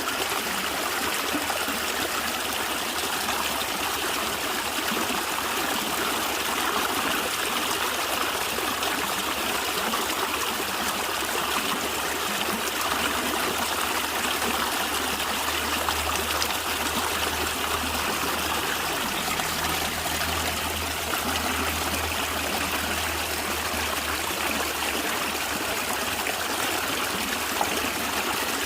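Small natural stream flowing and gurgling steadily, trickling water over stones.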